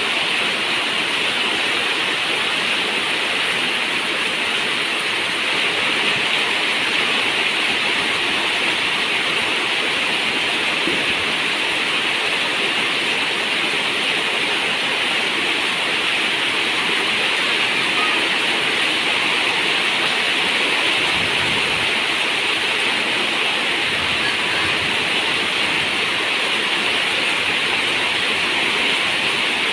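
Steady rain on a zinc roof, an even hiss with no single drops standing out.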